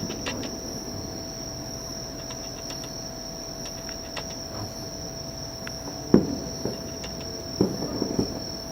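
Crickets chirring in one continuous high-pitched trill. A few short thumps come through about six and seven and a half seconds in.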